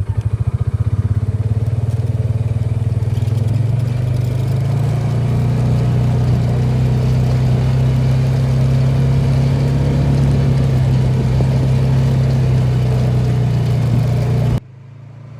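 Engine of the vehicle being driven, running steadily close to the microphone: a loud, even drone that comes up at the start and cuts off abruptly near the end.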